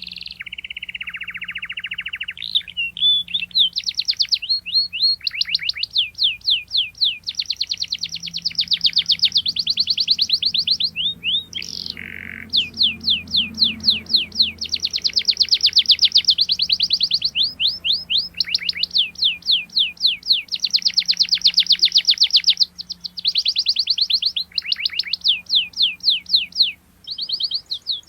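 Domestic canary singing: long rolls of rapidly repeated, sharp downward-sweeping chirps, several phrases in a row with brief breaks between them. A faint steady low hum sits underneath.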